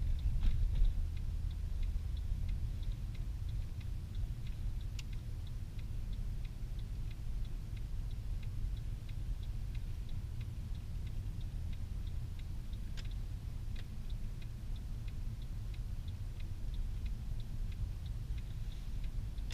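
Steady low rumble of the Mercedes C63 AMG's V8 and the road, heard from inside the cabin, under the regular ticking of the turn-signal indicator, about three ticks a second. A couple of sharper clicks come about five and thirteen seconds in.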